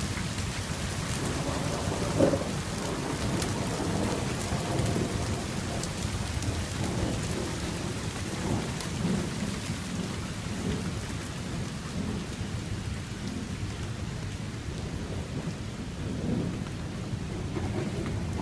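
Heavy thunderstorm rain falling steadily, with thunder rumbling continuously underneath and scattered ticks of single drops. A brief louder knock comes about two seconds in.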